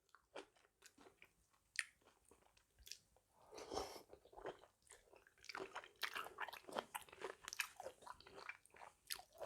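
Close-miked chewing and biting of a spicy mixed-seafood salad: scattered soft clicks and mouth sounds at first, then denser crunchy chewing from about halfway through.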